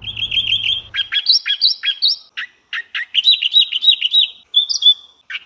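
A small bird chirping: quick runs of short, high, repeated notes, with a couple of brief pauses.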